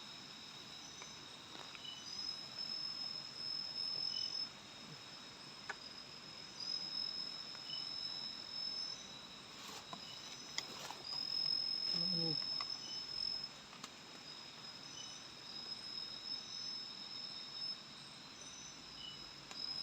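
Crickets and other night insects trilling steadily, two high continuous trills with short chirps every few seconds. A few faint clicks and a brief low sound come about ten to twelve seconds in.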